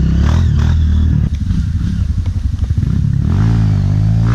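Single-cylinder four-stroke Honda CRF trail-bike engine running at low speed on slippery ground. About a second in it turns choppy and uneven; from about three seconds in the revs rise and fall smoothly.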